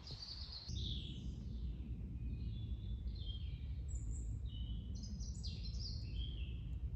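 Songbirds singing in short, repeated chirping phrases, several overlapping, over a steady low outdoor rumble.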